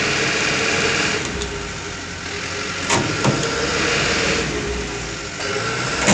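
Motor vehicle engine running steadily, with a faint steady whine, and one sharp knock about three seconds in.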